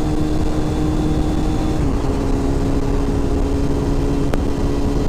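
Motorcycle engine running at a steady speed under heavy wind rumble on the microphone. Its pitch drops a little about two seconds in, and there is one sharp click near the end.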